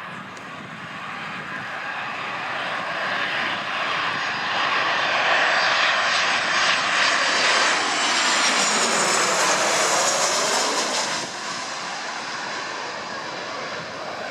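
An airliner passing close by, its engine noise building to a roar loudest about eight to eleven seconds in, with a sweeping swish in tone, then falling away.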